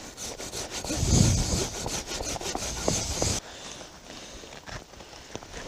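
Hand saw cutting through wood with quick back-and-forth strokes, stopping abruptly about three and a half seconds in.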